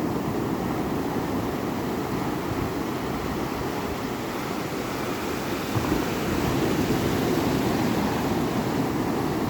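Ocean waves washing on a shore: a steady rush of surf that swells a little about six seconds in.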